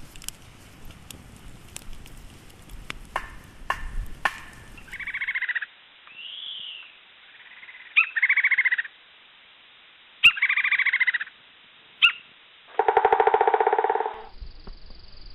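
Wood fire crackling with sharp pops, then a different recording cuts in about five seconds in: a string of about five short, arching animal cries, the last one lower and longer.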